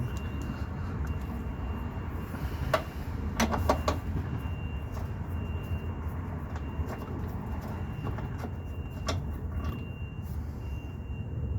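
Metal parts and hand tools clicking and knocking during hand work on a car's engine mount: one sharp click, then a quick cluster of clicks about three and a half seconds in, and another near nine seconds. A steady low rumble and a faint high steady tone run beneath.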